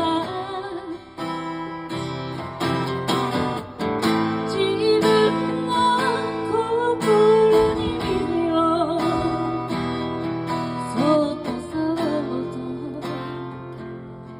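Acoustic guitar strummed steadily as song accompaniment, with a held, wavering melody line over it.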